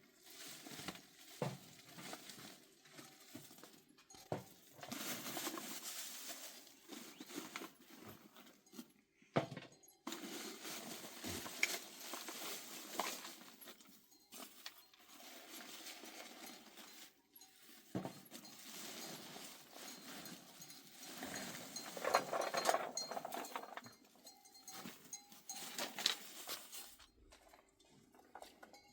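Livestock with bells clinking, and animal sounds, in several short stretches that cut off abruptly.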